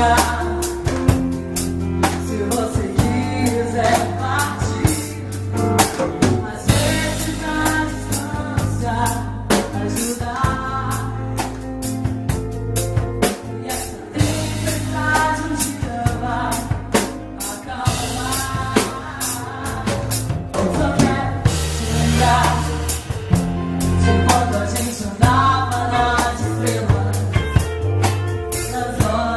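A woman singing a Portuguese-language pop ballad, accompanied by a drum kit and bass.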